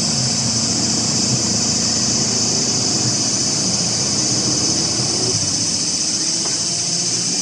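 Steady outdoor ambience: an even, high-pitched hiss or buzz over a low rumble, with no clear separate events.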